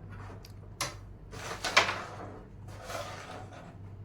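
Carrom striker flicked across the board: a sharp click about a second in, then the wooden pieces scraping and sliding over the board surface twice.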